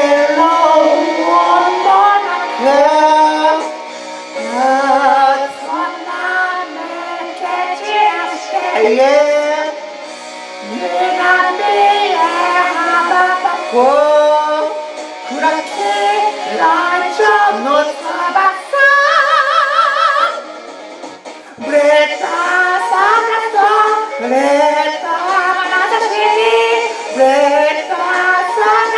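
Rock song with a woman singing the melody over the backing track, notes sliding up into pitch and one long high note shaken with vibrato partway through.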